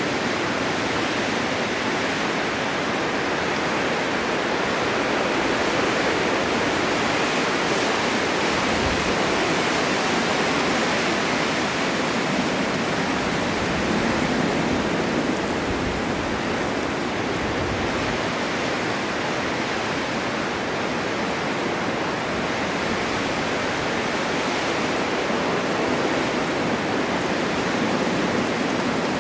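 Snowstorm wind blowing steadily, a dense even noise that swells and eases gently every few seconds.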